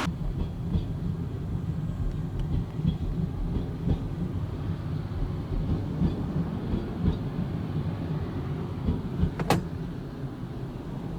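Train rolling slowly at reduced speed: a low rumble with irregular thumps from the wheels, and one sharp click near the end.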